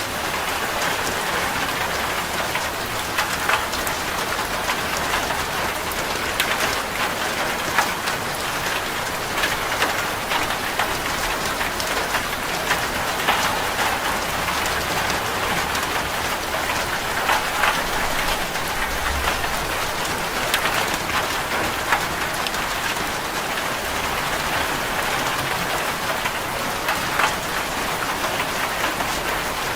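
Steady rain drumming on a corrugated zinc roof, a dense patter of drops hitting the sheet metal.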